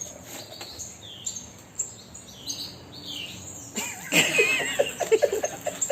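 Pet parrot giving short, high chirps that slide in pitch, then about four seconds in a much louder, warbling call over a quick run of fluttering beats.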